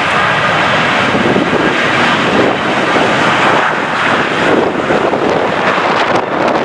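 Airliner's engines running loud and steady, mixed with strong wind buffeting the microphone.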